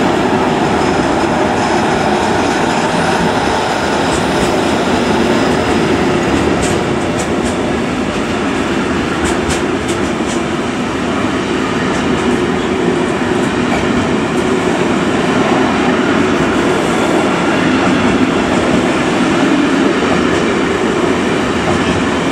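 Intermodal freight train of articulated pocket wagons loaded with semi-trailers rolling past close by: a steady loud rumble and clatter of wheels on rails, with a few faint high squeaks midway.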